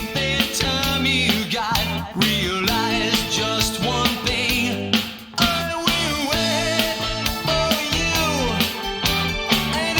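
Late-1980s studio recording of a rock band: electric guitars and singing over a steady beat, with a brief drop-out about halfway through before the band comes straight back in.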